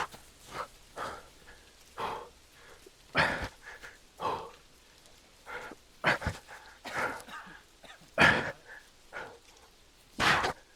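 A person breathing hard under strain, in short, forceful huffs roughly once a second.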